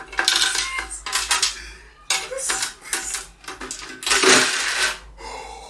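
Irregular metallic clanking and scraping of a tool working at a homemade savings safe to force it open, with a longer, louder scrape about four seconds in.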